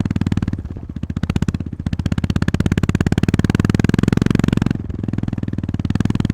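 Honda GB350S's air-cooled single-cylinder engine running under way, its firing pulses in a rapid even beat, with the throttle easing off briefly a few times: about half a second in, near two seconds, and just before five seconds.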